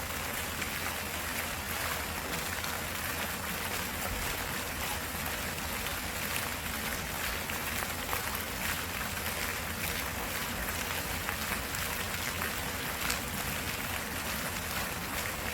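Steady rush of running water, like a stream flowing over rocks, with a low rumble underneath.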